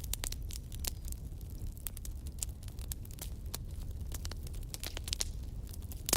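Firewood burning in a fireplace, crackling and popping irregularly over a low steady rumble, with a louder pop near the end.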